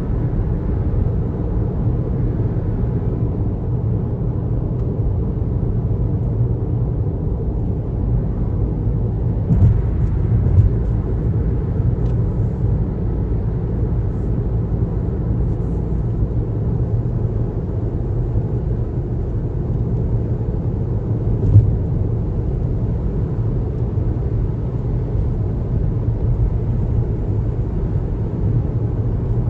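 Car driving on a highway: a steady low road and tyre rumble, with a few short knocks about ten seconds in and another one about two-thirds of the way through.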